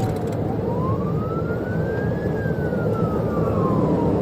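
Police car siren on a slow wail, its pitch falling, rising for about two seconds, then falling again, over the steady road and engine noise of a car driving at high speed.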